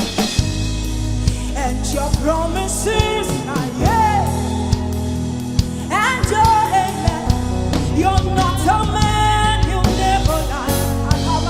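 Gospel worship music: a band with drum kit and bass plays a steady groove under a singer whose voice slides and bends between notes.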